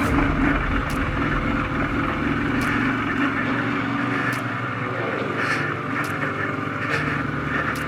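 Royal Enfield Himalayan's single-cylinder engine running as the motorcycle is ridden slowly along a rough trail, its note shifting a couple of times, with a few sharp ticks over it.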